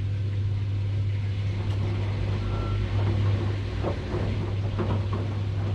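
Washing machine running: a steady low motor hum, with irregular soft swishes of water and laundry moving in the drum from about halfway.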